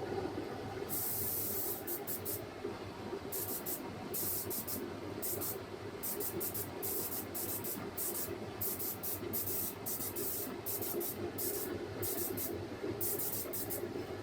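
Compressed-air spray gun hissing in many short bursts as its trigger is pulled and released, over a steady low hum.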